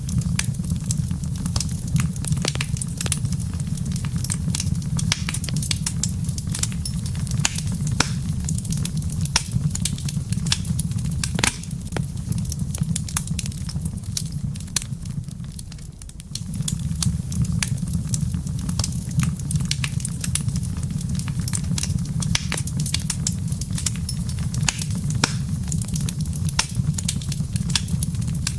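Wood fire in a fireplace crackling, with many sharp pops and snaps over a steady low rumble. The rumble drops away briefly about halfway through, then comes back.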